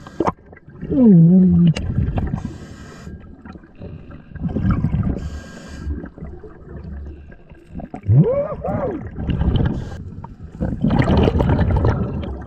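A scuba diver's muffled voice heard underwater through the mouthpiece: two wordless exclamations, the first falling in pitch about a second in, the second rising and falling about eight seconds in. Between them come gurgling, hissing bursts of exhaled breath bubbles.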